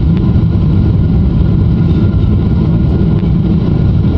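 Steady, loud low rumble of engine and airflow noise inside a Boeing 777's passenger cabin.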